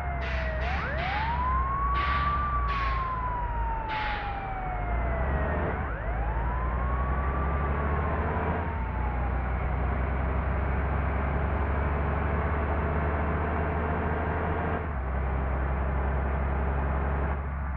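Two siren wails over a steady low engine drone, each rising quickly and then falling slowly over about four seconds; the second starts about six seconds in. Several short sharp clanks come in the first four seconds.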